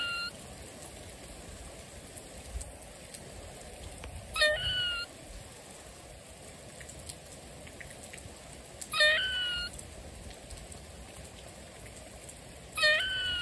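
Steady rain with a short, loud animal call repeated about every four and a half seconds; each call starts sharply, rises quickly in pitch and then holds for about two-thirds of a second.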